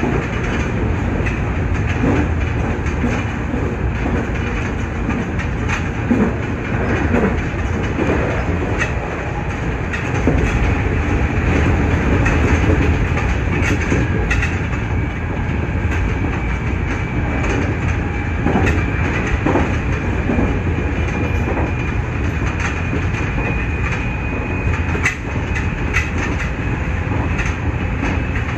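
Nankai 8300 series electric train running along the line, heard from inside the front car: a steady rumble with wheels clicking over rail joints. A thin high whine holds for several seconds in the second half.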